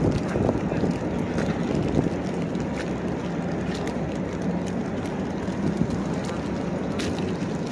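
Steady low rumble of city street noise, with a few faint clicks.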